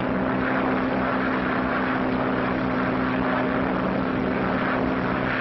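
Propeller airplane engine droning steadily in flight, a low, even hum with a rushing noise over it.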